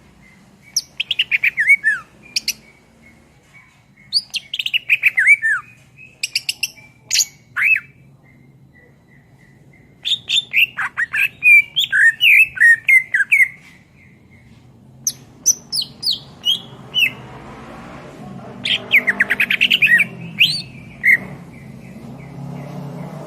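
Cucak ijo (green leafbird) singing in bursts of rapid, falling chirps and whistles, phrase after phrase with short pauses between. A low rumble builds in the background from about halfway through.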